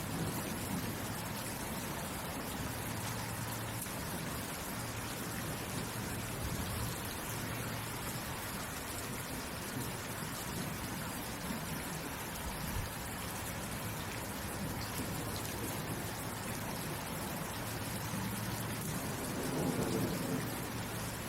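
Steady rainfall, an even hiss of drops pattering on surfaces. A low rumble swells briefly near the end.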